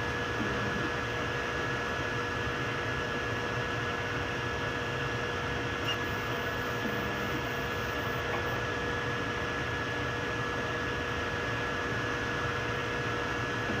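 3D printers running mid-print: a steady whirring of fans with a constant whine.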